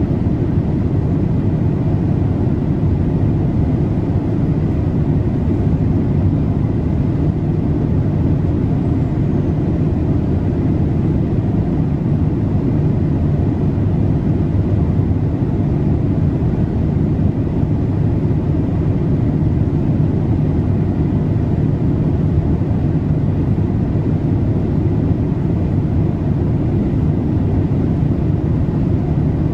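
Steady in-flight cabin noise of a Boeing 787-8 airliner: an even, low rush of airflow and engine sound, with a faint steady high tone over it.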